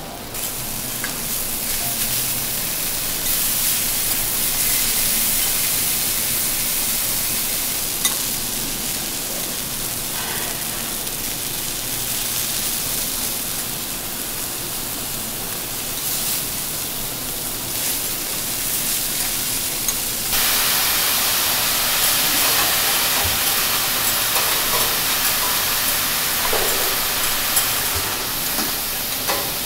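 Food sizzling on a hot teppanyaki steel griddle, a steady hiss with an occasional light click. It steps up louder about twenty seconds in.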